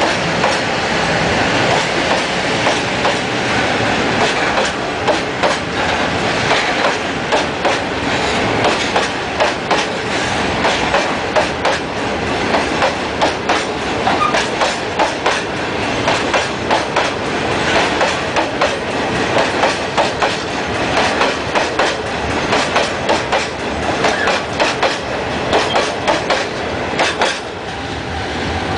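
Wagons of a loaded coal train rolling past at a level crossing, their wheels clacking over rail joints in a steady run of sharp clicks over a continuous rumble.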